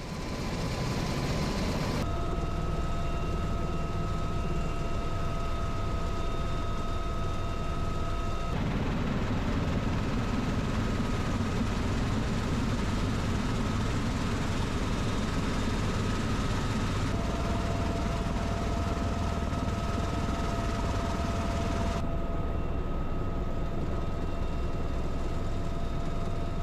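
Helicopter turbine and rotor noise, a steady mechanical din with a whine on top. It changes abruptly several times, as if from separate clips spliced together.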